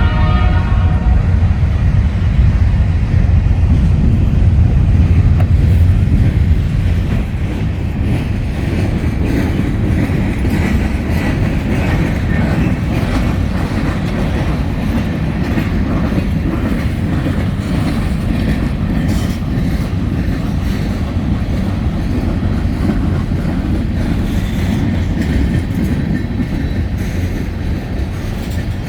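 Freight train hauled by EMD SD40-2 diesel locomotives passing close by. The horn stops about a second in, and the locomotives' heavy rumble is loudest for the first six seconds. After that the cars roll past with steady rumble and clicking wheels over the rail joints.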